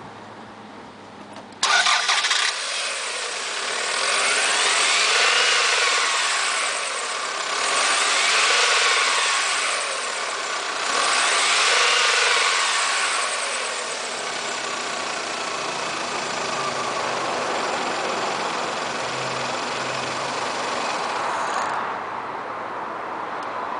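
2001 Toyota Camry engine starting abruptly, then revved three times, each rev rising and falling in pitch. It then runs steadily, and the loud engine sound drops away shortly before the end.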